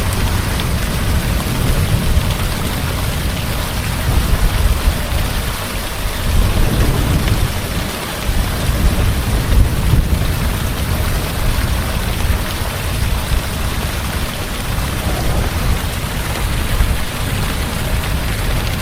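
Heavy rain falling steadily, with thunder rumbling low underneath throughout.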